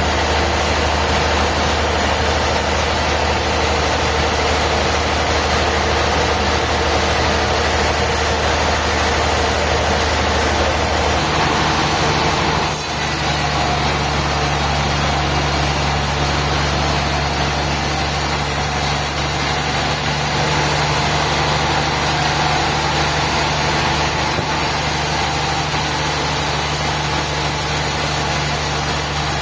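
Sawmill machinery running steadily: a constant engine-like drone, its low tone shifting abruptly about eleven to thirteen seconds in.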